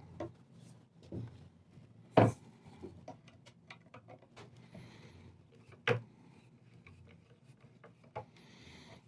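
Quiet clicks and light knocks of wooden chair parts being handled, with two sharper knocks about two and six seconds in and a couple of brief rubbing scrapes.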